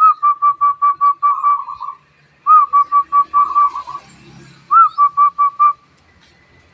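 Wild zebra dove (perkutut) singing: three phrases of soft, rapid cooing notes. Each phrase opens with a slurred note, runs into quick repeated coos and ends in a short rolling trill.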